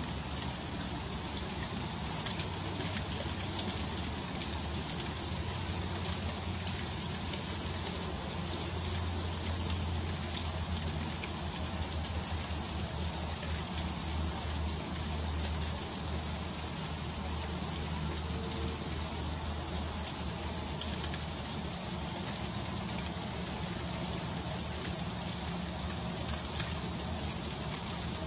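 Freezing rain falling steadily: a dense, even patter of many fine ticks. A low hum runs underneath and is strongest in the middle.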